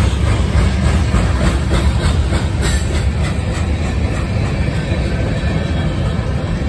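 CSX freight train rolling past with a steady low rumble, its wheels clacking over rail joints in the first few seconds.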